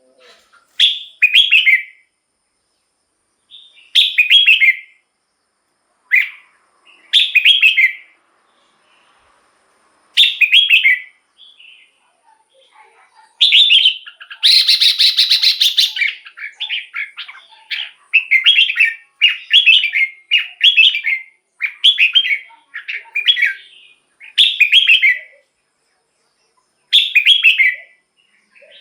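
Red-whiskered bulbul singing a series of short, bubbling whistled phrases, each about a second long, with brief pauses between them. From about 13 to 24 s the phrases come thick and fast, and around 15 s there is a harsher, busier burst of song.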